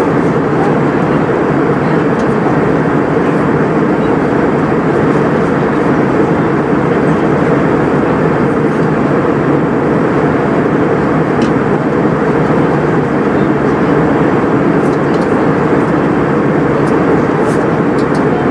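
Steady cabin noise inside an Airbus A320 under way: an even rush of engine and airflow noise that holds constant throughout.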